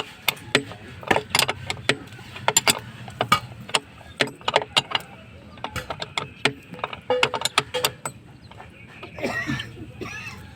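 Irregular sharp clicks and taps of hand tools on hard material during a plumbing leak repair, several a second at times.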